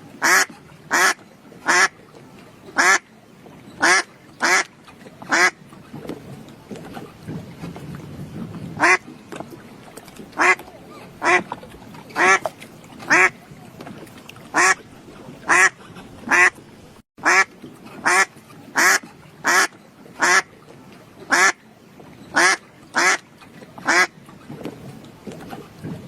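A bird giving short, harsh, quack-like calls over and over, roughly one a second at an uneven pace, with a pause of about three seconds a quarter of the way through.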